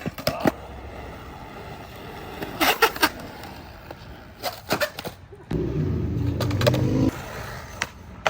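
Skateboard on concrete: several clusters of sharp clacks from the tail and deck hitting the ground, then the urethane wheels rolling with a steady low rumble for about a second and a half that cuts off suddenly.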